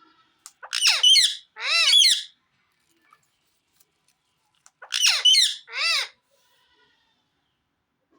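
Pet parrot calling: two bursts of loud, high calls whose pitch arches up and down, each burst made of two calls, about three seconds apart.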